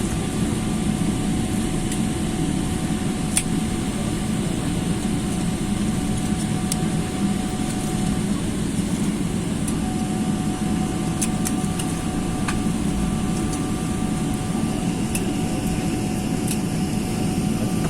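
Steady drone of an airliner cabin: a low rumble of the engines and air-conditioning with two faint steady tones, and a few light clicks along the way.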